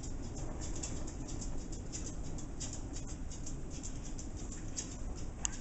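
Blizzard wind gusting steadily against the house, a low rumble with fine, irregular ticking of wind-driven snow on the window glass.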